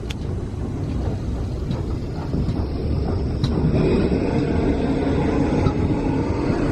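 Railway train rolling on the rails, a steady rumble that grows louder through the middle.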